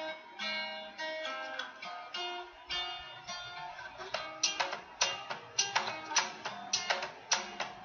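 Background music of plucked acoustic guitar, picked notes at first and then sharper strummed chords from about halfway through.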